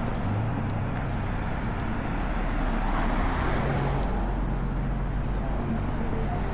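Steady road traffic noise: a continuous hum of passing vehicles.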